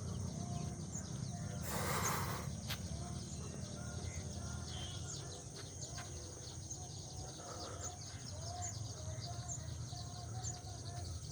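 Birds calling in short, repeated chirps over a steady low rumble of wind, with a brief rush of noise about two seconds in.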